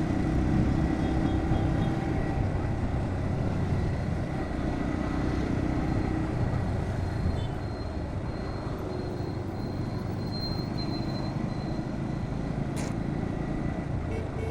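Bajaj Pulsar NS125's single-cylinder engine running while the motorcycle is ridden through city traffic, with steady road noise, a brief click near the end.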